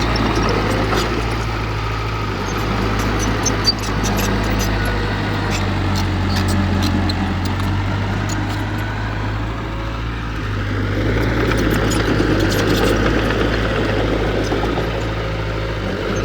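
Heavy diesel engine of earthmoving machinery running steadily at a low, even pitch, swelling slightly in level later on, with a single sharp click a few seconds in.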